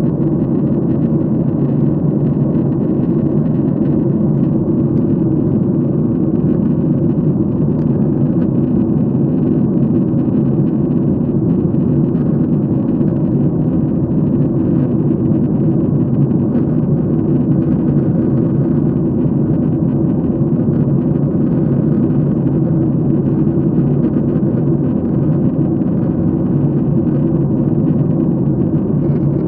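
Airliner cabin in flight: a steady, even noise of the engines and rushing airflow heard from a passenger window seat, without changes or distinct events.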